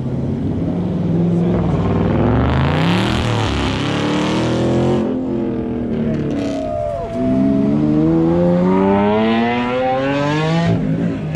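Car engines accelerating hard in two long rising pulls. The first climbs from about a second in, and the second starts around seven seconds in and cuts off abruptly near the end.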